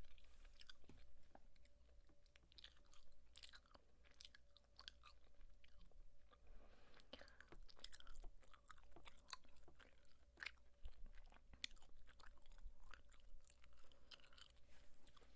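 Gum being chewed close to a microphone: a run of soft, irregular wet mouth clicks and smacks.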